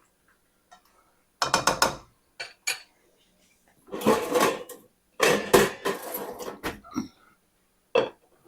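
A cooking utensil clattering and scraping against a pan in irregular bursts while stir-fry vegetables and chicken are stirred, with short pauses between the strokes.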